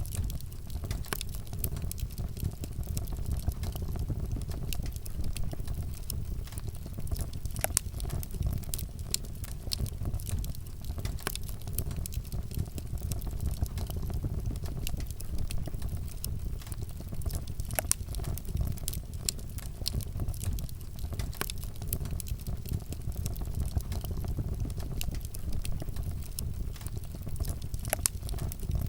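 Wood fire burning steadily: a low rumble of flame with frequent sharp crackles and pops of burning wood.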